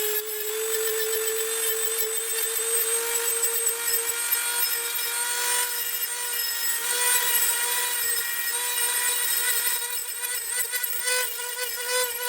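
Dremel rotary tool running at a steady high whine while grinding the teeth of a steel hole saw, with a rasping sound as the bit works against the teeth.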